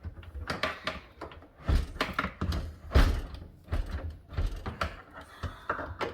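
Irregular clicks, knocks and rattles of hand work on a built-in GE dishwasher's mounting hardware, as a tight spring clip is forced and the unit is worked loose. The loudest knocks come about a second and a half in and again at three seconds.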